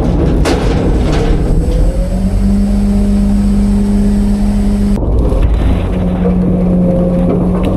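Diesel engine of an Autocar front-load garbage truck held at raised revs with a steady hydraulic drone, driving the Heil packer. The pitch climbs about two seconds in, and the sound changes suddenly about five seconds in.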